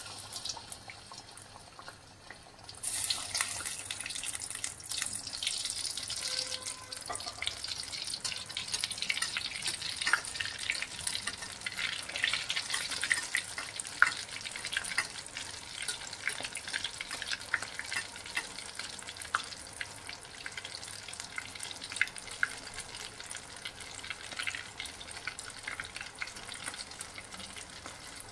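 Bread rolls frying in hot ghee in a kadhai: a steady sizzle full of small crackling pops, which gets much louder about three seconds in.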